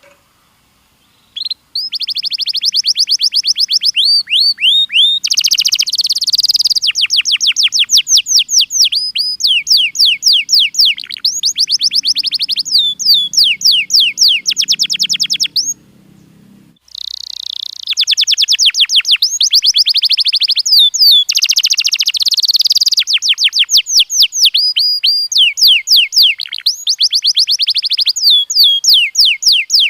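Canary singing: long, fast trills of repeated high sweeping notes, running phrase after phrase, with a short pause a little past the middle.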